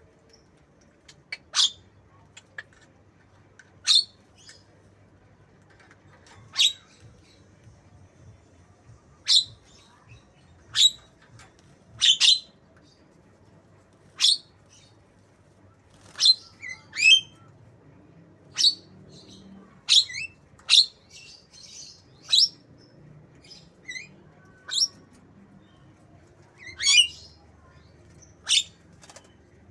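Javan myna giving short, sharp, whistled calls, one every second or two, in its imitation of white-rumped shama song.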